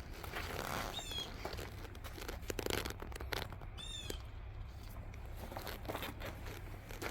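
A bird chirping twice, a short call that falls in pitch, over rustling and crinkling and a low rumble. The loudest moment is a burst of rustling a few seconds in.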